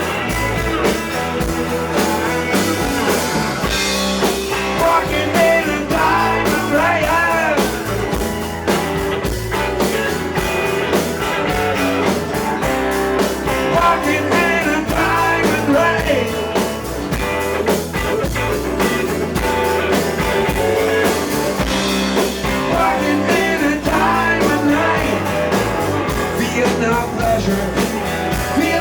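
Live blues-rock band playing an instrumental stretch of the song, electric guitar lead lines bending and wavering in pitch over bass and drums.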